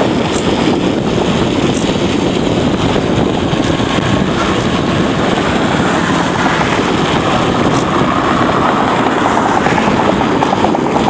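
Steady rush of wind on the microphone with tyre and road rumble from a bicycle rolling downhill.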